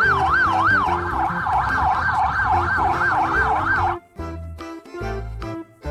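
Police car siren wailing in a fast up-and-down yelp, about three sweeps a second, over background music. The siren cuts off suddenly about four seconds in, leaving the music.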